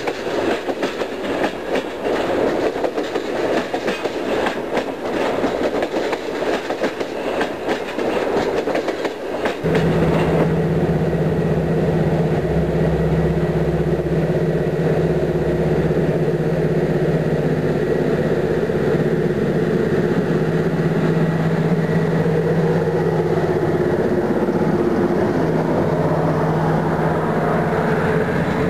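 Passenger coaches rolling past with a rapid clickety-clack of wheels over the rails. About ten seconds in this cuts to a CFR class 41 (060-EA) electric locomotive and its double-deck coaches passing, a steady electric hum with two constant low tones and a brief deep rumble at the start.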